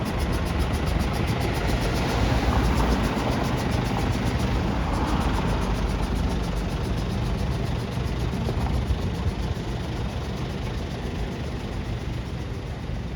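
City street traffic: a steady rumble of vehicle engines and tyre noise, easing slightly in the second half.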